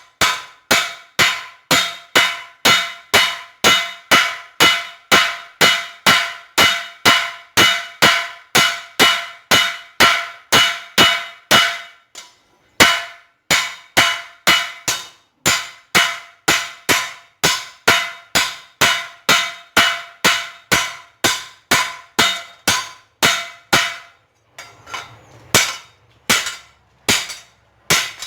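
Hammer blows on a hot steel chainsaw guide bar on an anvil, about two ringing strikes a second, drawing the thick bar out thinner for a knife blade. The blows stop briefly about halfway, then come slower and less even near the end.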